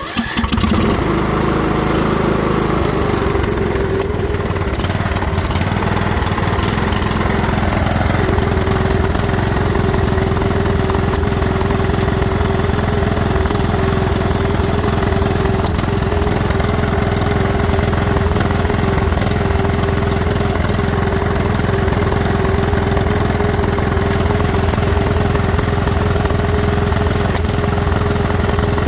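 Troy-Bilt Pony riding mower engine starting and then running at a steady speed.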